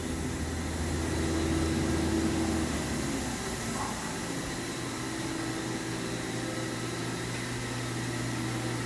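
Mazak FH-6000 horizontal machining center running with a steady mechanical hum and whir as its tool changer's chain magazine is indexed by hand. About three seconds in, the pitch of the hum shifts to a different held tone.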